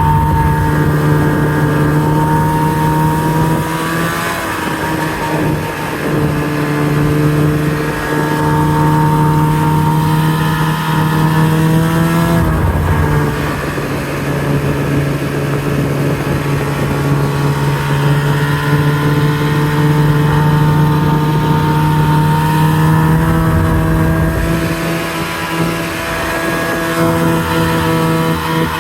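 Snowmobile engine running under way, its pitch shifting a few times with the throttle.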